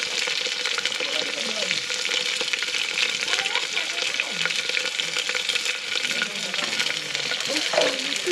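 Chopped garlic and chhyapi (Himalayan chives) sizzling in hot oil in an open aluminium pressure cooker over a wood fire, stirred with a wooden spoon: the tempering for dal. It is a steady crackling sizzle.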